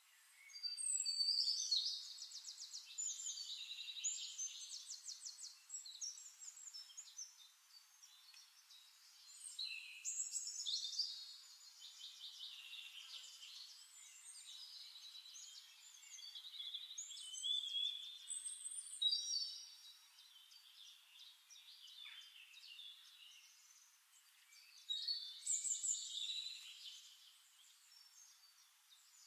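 Songbirds singing: bursts of high chirps and rapid trills, in several phrases a few seconds apart.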